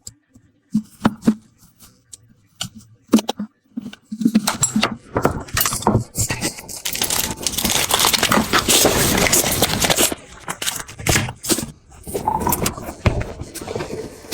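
Mealtime handling sounds: scattered sharp clicks and scrapes, then several seconds of dense crackling and rustling, and more clicks and crackle near the end.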